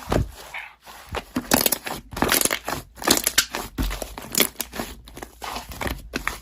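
Slime being squished and pressed by hand, with irregular sticky crackles and pops.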